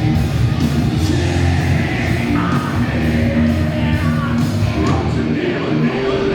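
Loud rock music with a lead singer over a full band.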